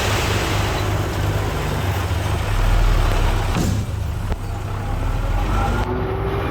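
Diesel engine of a heavy earthmoving machine running steadily with a low rumble, a little louder about a third of the way through.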